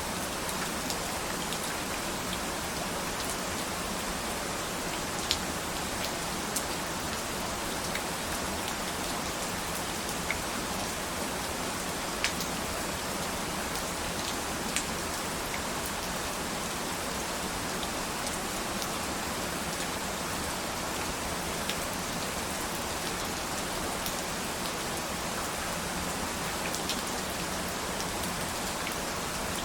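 Steady rain falling, with scattered louder drops striking close by as sharp ticks.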